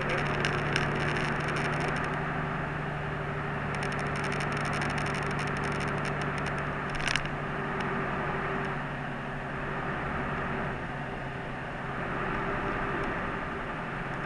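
Inside a moving route bus: the diesel engine hums steadily under road and tyre noise. Light rattling clicks come between about four and seven seconds in, with one sharper click at about seven seconds.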